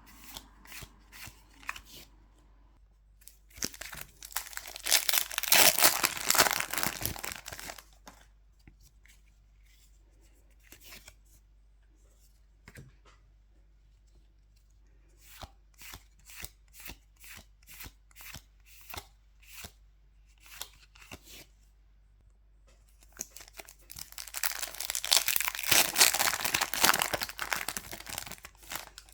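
Foil Pokémon booster pack wrappers being torn open and crinkled, twice, about four seconds in and again near the end. In between come short crisp clicks and snaps of trading cards being handled and flicked one by one.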